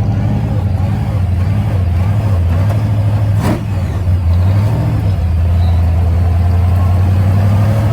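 A motor vehicle's engine running with a steady low drone, with one brief click about three and a half seconds in.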